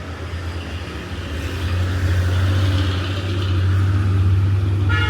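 A motor vehicle engine running close by, getting louder about one and a half seconds in and holding steady, with a vehicle horn starting to sound right at the end.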